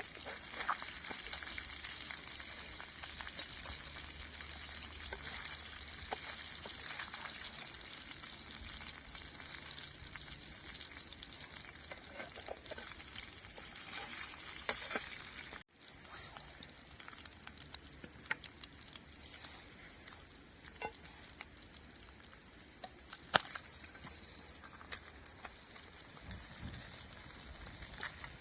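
Silver carp frying over a campfire: a steady sizzle with small crackles and pops. About halfway through the sound cuts out for a moment, then goes on with sparser pops, one of them sharp about two-thirds through.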